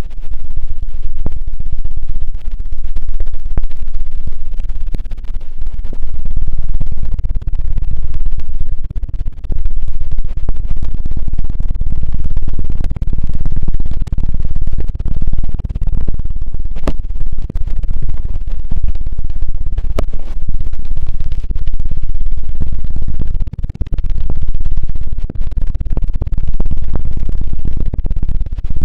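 Loud, rapid fluttering rubs right on the microphone: the ASMR 'helicopter' ear-cleaning sound, a fast whirring patter heaviest in the low end, with a few brief breaks.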